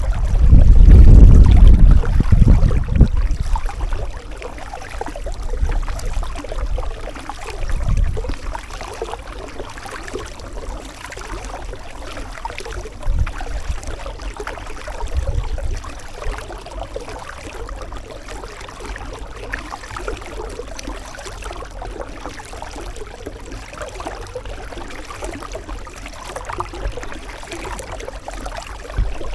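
Kayak paddling: water trickling and splashing off the paddle and lapping at the hull. Wind rumbles on the microphone for the first few seconds.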